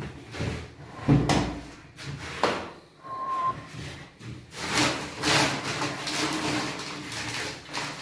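A heavy thump, a sharp knock and a brief squeak, then a few seconds of scraping and rustling, like things being handled and moved during renovation work.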